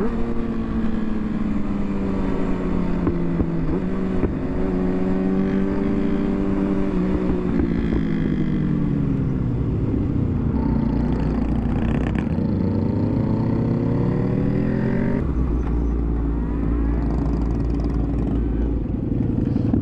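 Motorcycle engine under way: the revs fall as the bike slows, then rise again as it accelerates, dropping sharply about fifteen seconds in at a gear change.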